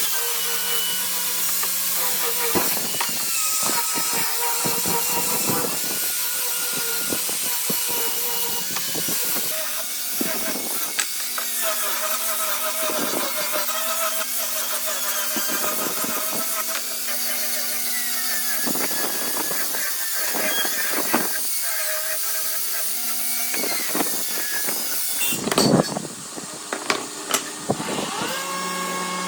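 A power tool's motor runs with a steady whine and a bright hiss, its pitch stepping up and down as the load changes, with scattered knocks from work on the wood. The sound changes abruptly a few seconds before the end.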